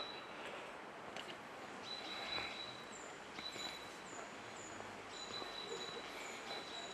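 Birds calling over a steady outdoor background hiss. A thin, high steady note comes and goes, and from about three seconds in a bird repeats short, very high falling notes about twice a second.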